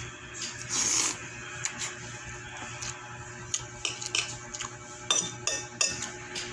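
Spoon and fork clinking and scraping against a plate while eating pancit noodles and rice, with a short scrape about a second in and several sharp clinks in the second half.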